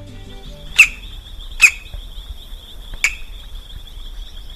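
Three loud, sharp single bird calls, spaced one to one and a half seconds apart, over a steady high insect buzz.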